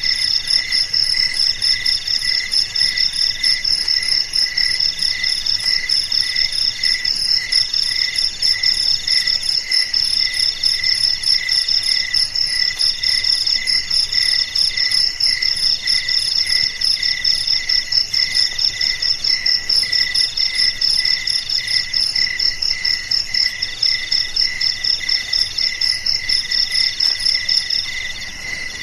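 A loud chorus of crickets chirping, several singing at once: a high, fast, even trill over a lower pulsing chirp, with another cricket singing in phrases of about a second broken by short gaps. The highest trill stops near the end.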